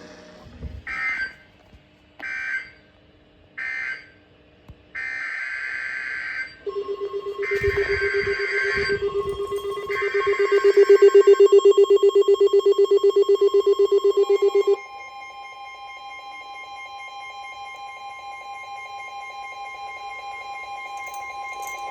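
NOAA Weather Radio alert signalling between two warnings: three short bursts of high warbling data, then three longer bursts (SAME end-of-message and header codes), followed by the steady 1050 Hz warning alarm tone. A loud pulsing lower alert tone sounds with it from about seven seconds in and stops abruptly near fifteen seconds. After that a second steady tone continues alongside.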